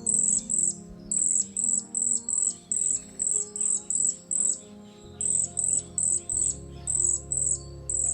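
Cedar waxwings giving high, thin calls, short notes repeated about four or five times a second, over background music with sustained chords.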